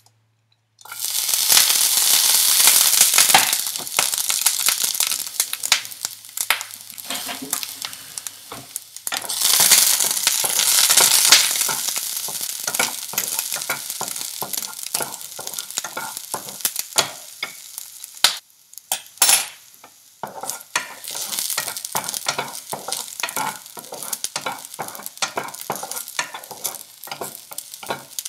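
Chopped food sizzling in hot oil in a frying pan, stirred with a wooden spatula that scrapes and knocks against the pan. The sizzle starts loud about a second in, swells again around ten seconds, then settles to a softer crackle.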